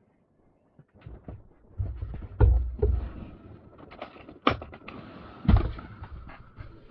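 Handling noise from taking apart a graphics card: scattered knocks, clicks and thumps over light rustling, the loudest about two and a half and five and a half seconds in.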